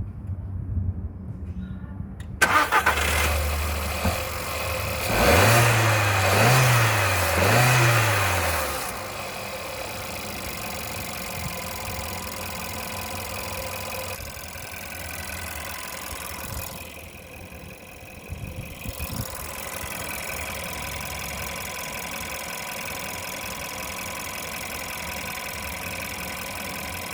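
2014 Volkswagen Polo engine starting about two seconds in, revved up and down three times, then settling into a steady idle.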